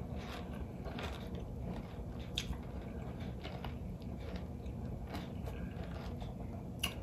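Close-up chewing of crisp fried catfish: soft crunching with small scattered clicks, a sharper click about two and a half seconds in and another near the end.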